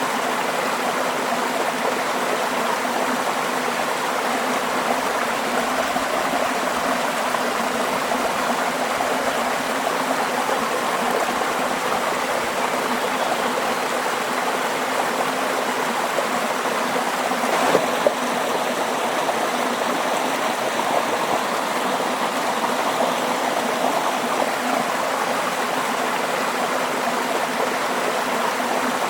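Water flowing steadily with an even, continuous rush and gurgle, like a running stream. A brief faint click comes about eighteen seconds in.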